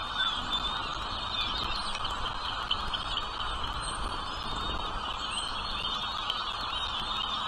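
Birds chirping continuously in many short, rapid high notes.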